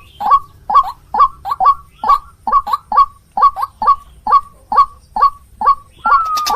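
White-breasted waterhen (ruak-ruak) calling: a harsh, honking note repeated about twice a second, with a longer drawn-out note near the end.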